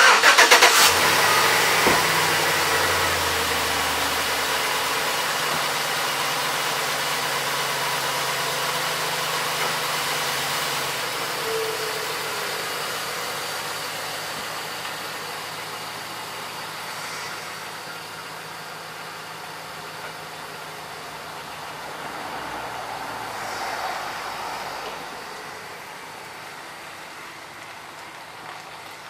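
GM 5.3 V8 truck engine starting and then running for warm-up, loud at first and settling gradually quieter as it runs.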